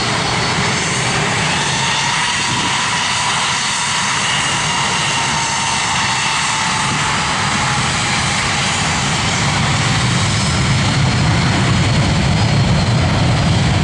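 Boeing 757-200 jet engines running loud and steady, with a faint whine over the roar; the low rumble grows a little stronger near the end.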